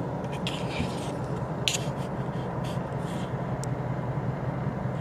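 Car engine idling with a steady low hum, heard from inside the cabin, with scattered scrapes and clicks of the camera being handled.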